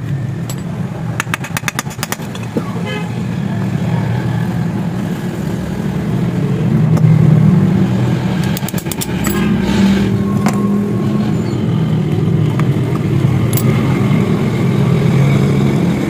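Motorcycle engine running steadily, getting louder for a moment about seven seconds in, with a quick run of clicks near the start.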